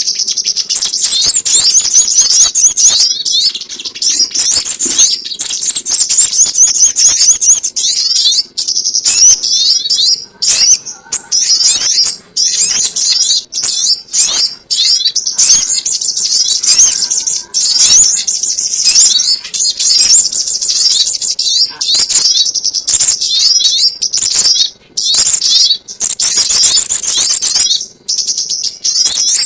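Bird-lure recording of the sogon ontong's call: dense, rapid, high-pitched chattering notes repeated almost without a break, with a few short pauses.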